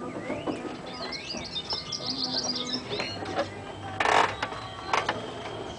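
Small birds chirping in a quick, high twittering run, with a short loud rush of noise about four seconds in and a smaller one a second later.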